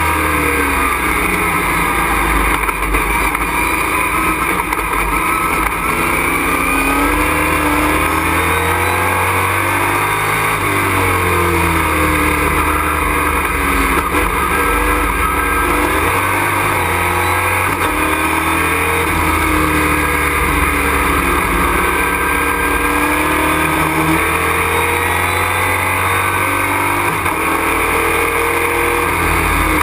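Race truck's engine at racing speed, heard from inside the cockpit, its revs rising and falling again and again through gear changes and corners over a constant rush of noise.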